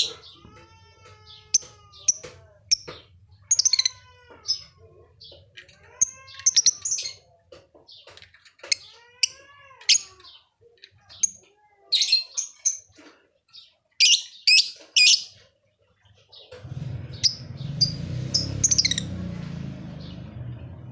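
Lovebird calling busily in short, shrill chirps, with some gliding pitched calls between them. From about three quarters of the way through, a steady low rumble runs under the calls.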